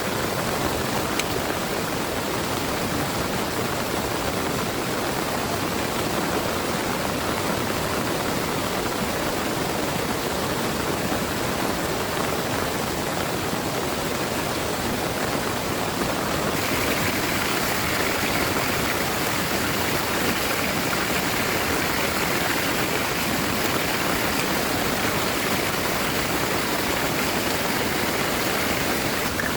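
Heavy rain pouring steadily, a dense even hiss. Its tone changes a little past halfway through.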